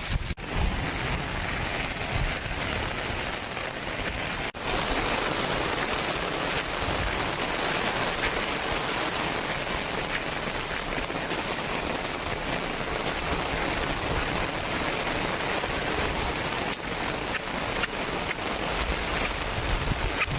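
Heavy rain pouring down in a storm: a dense, steady hiss that drops out briefly twice, about half a second in and again around four and a half seconds.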